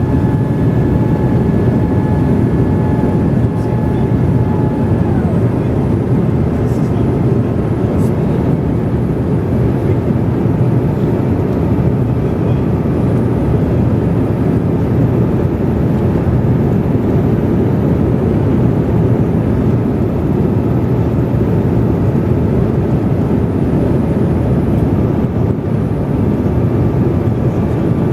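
Steady in-flight cabin noise of a Boeing 787-8 at cruise, a deep even rush of engines and airflow heard from inside the cabin. A faint thin whine runs through the first five seconds, then slides down and fades.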